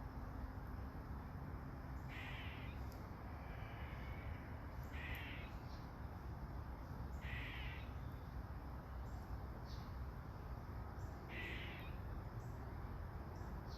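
A bird giving four harsh calls a few seconds apart, over a steady hiss of light rain.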